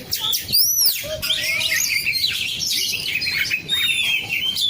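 Oriental magpie-robin (kacer) singing: a fast, varied run of chirps, trills and whistles, with a loud rising-then-falling whistle about half a second in.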